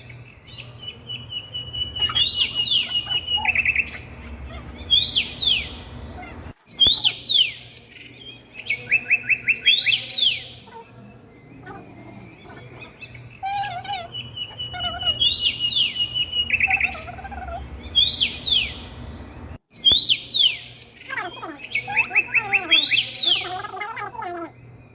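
Songbird singing, repeating a short phrase of quick falling whistles and a rapid trill every few seconds over a low steady hum; the sound cuts out for an instant twice.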